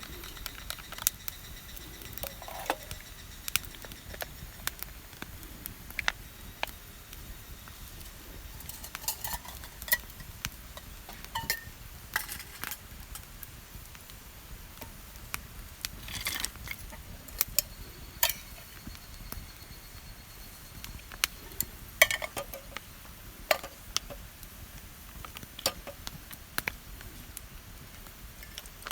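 Charcoal fire crackling, with irregular sharp pops and snaps scattered throughout.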